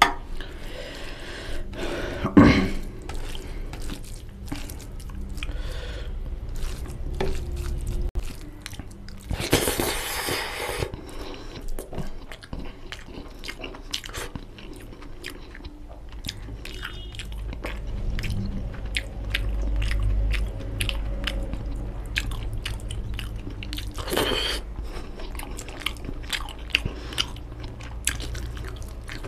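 Close-miked chewing and wet mouth sounds of a man eating fried rice and chicken curry with his fingers. Many short clicks and smacks run throughout, with louder noisy bursts about two and a half, ten and twenty-four seconds in.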